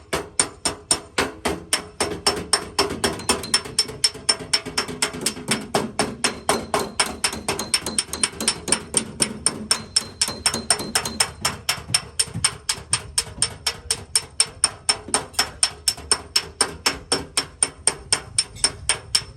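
Rapid, steady hammer taps on a car's sheet-metal body panel, about four a second, with a faint metallic ring: bodywork hammering to work out a dent.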